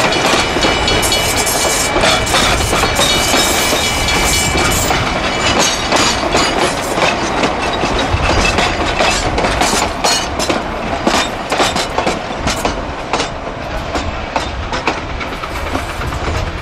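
Railway cars rolling along the track, wheels clicking rapidly over rail joints, with a thin high squeal in the first few seconds.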